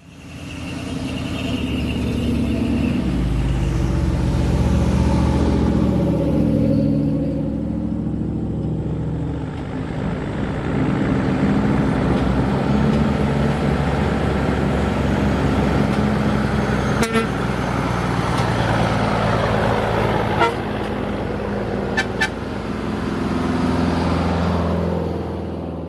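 Heavy trucks' diesel engines running and pulling past, with horn toots. A few sharp clicks come in the second half.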